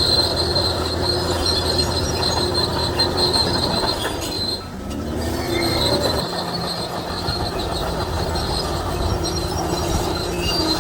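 A Shantui DH17C3 crawler bulldozer's diesel engine runs under load while its steel tracks squeal steadily. About five seconds in, the level dips briefly and then the engine note rises.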